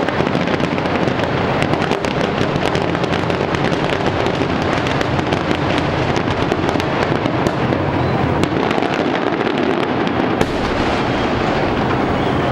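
Fireworks going off in a dense, continuous barrage: many bursts and crackles running together into a steady rumble, with sharp cracks throughout.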